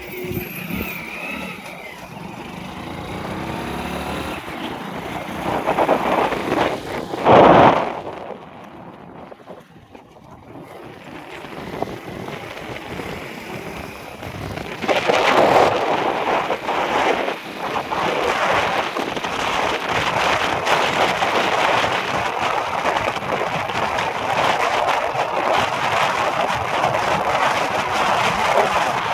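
Road traffic noise: a vehicle passes loudly about seven seconds in. After a lull, steady road and wind noise builds from about fifteen seconds in and holds.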